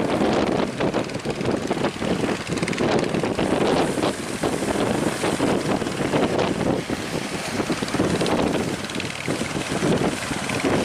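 Strong wind buffeting the microphone over a fishing boat's engine running at sea, as the boat tows another boat.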